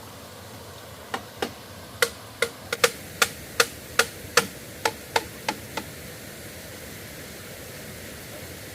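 A quick run of about fourteen sharp knocks, roughly three a second, over some five seconds, then a steady background hiss.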